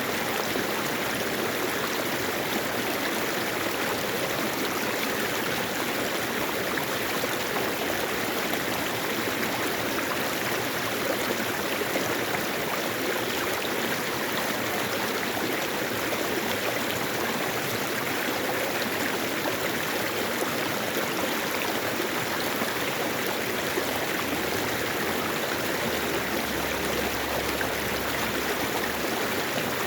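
Mountain valley stream flowing steadily, a continuous rush of water.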